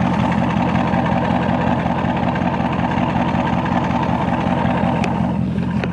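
Dodge Charger Scat Pack's 6.4-litre 392 HEMI V8 idling steadily.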